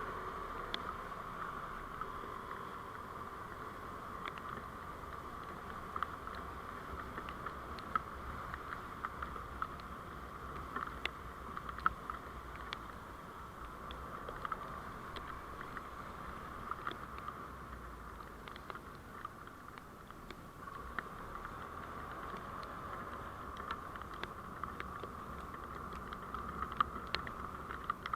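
Steady vehicle running noise heard through a dashcam, a constant hum and rumble with scattered light ticks and clicks.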